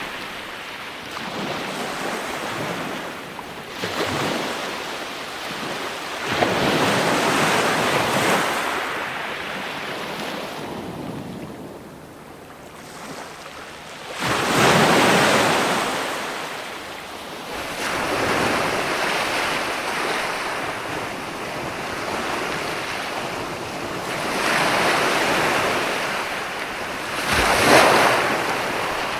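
Ocean waves breaking and washing up a shore, surging and falling back every few seconds, with a quieter lull near the middle followed by a big surge.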